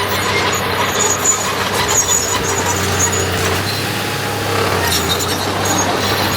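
Diesel engine of heavy earthmoving machinery running steadily at work, with short high-pitched squeaks now and then.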